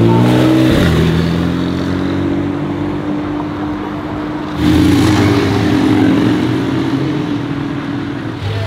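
Porsche 911 Cabriolet's flat-six engine pulling away, its pitch rising and then dropping at a gearshift just before a second in, then holding a steady drone. A second, louder surge of engine sound comes in about four and a half seconds in.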